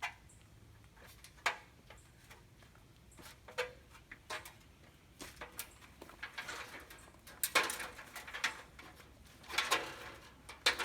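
Scattered knocks, clicks and scrapes of a person climbing down a ladder, step by step, with louder shuffling and scraping in the second half.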